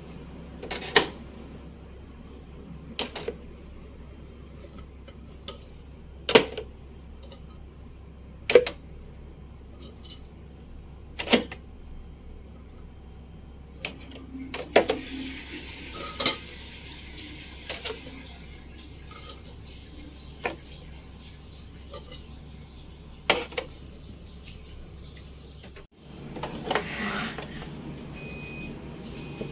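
Sharp clinks and knocks of kitchen items being handled and set down, a few seconds apart, with a short hissing rush about halfway through.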